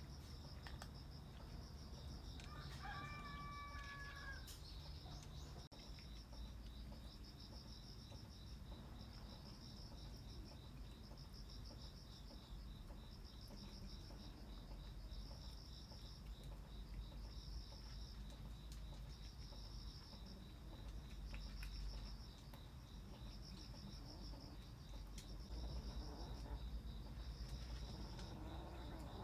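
Crickets chirping in high, pulsing trills that repeat about every second and a half, over a low steady rumble. A single short bird call sounds about three seconds in.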